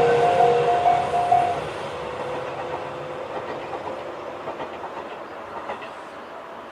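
Tobu 20400-series electric train running away over the rails, its wheel clatter fading steadily with a few faint clicks. At the start a pitched, intermittent ringing, the crossing's electronic warning bell, is still sounding and stops about a second and a half in.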